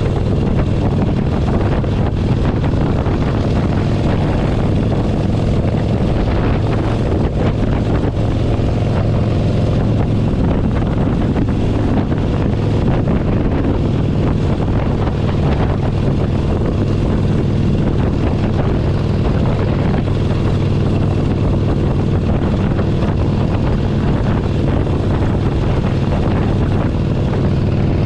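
Harley-Davidson Forty-Eight Sportster 1200's air-cooled V-twin engine running at a steady cruising speed, with wind noise on the microphone.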